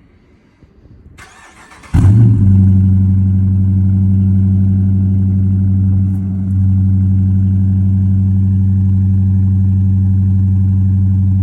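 Dodge Charger R/T's 5.7-litre HEMI V8 cold-started through a resonator-delete exhaust: the starter cranks briefly, the engine catches about two seconds in with a loud flare, then settles into a steady, deep idle.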